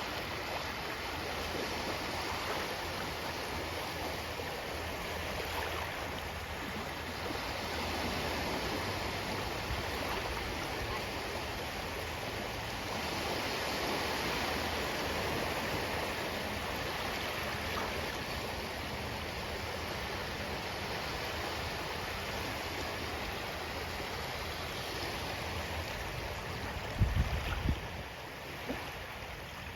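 Ocean surf washing in, a steady rushing noise that swells and eases slowly. Near the end, a brief loud low rumble.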